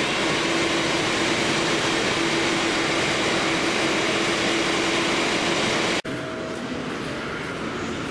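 Steady hum and hiss of a West Kyushu Shinkansen N700S train standing at the platform, with a steady tone held for most of the first five seconds. About six seconds in, the sound cuts abruptly to the quieter steady hum of the station concourse.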